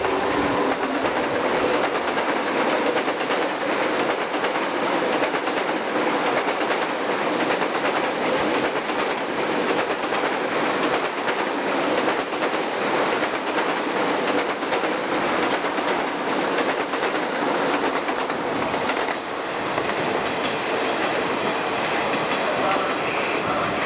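Trains running past on the tracks, among them a 0 Series Shinkansen: a steady rush of wheels on rail with rhythmic clickety-clack. There is a brief dip about 19 s in.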